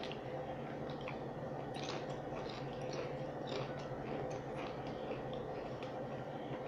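Person chewing crunchy potato chips, a scatter of small crisp crunches over a steady low hum.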